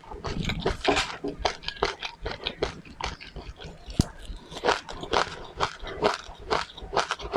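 A person chewing and crunching seeds close to the microphone: a rapid, irregular run of wet clicks and crackles, several a second.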